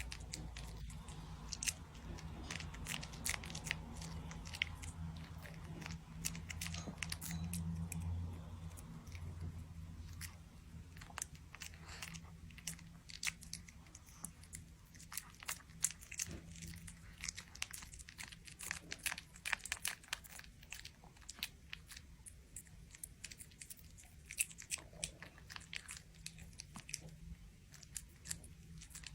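An animal chewing and crunching something crisp, with many irregular sharp crunches throughout. A steady low hum runs underneath and swells briefly around the middle.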